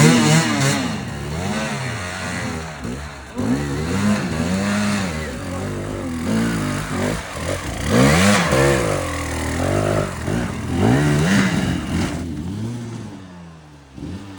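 Motorcycle engine being ridden, its revs rising and falling again and again as the throttle is opened and closed, then dying away near the end.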